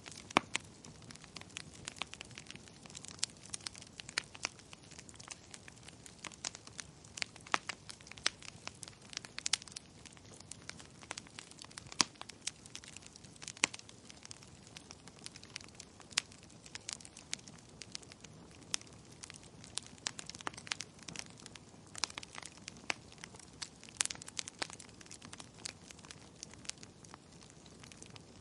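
Fire crackling in a fireplace: many irregular sharp pops and snaps over a soft, steady hiss.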